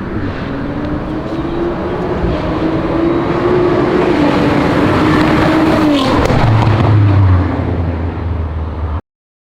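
Audi RS4's twin-turbo V6 through a titanium aftermarket exhaust, accelerating with its note rising steadily for about six seconds. The revs then drop sharply with a brief crackle, settling to a low rumble before the sound cuts off suddenly near the end.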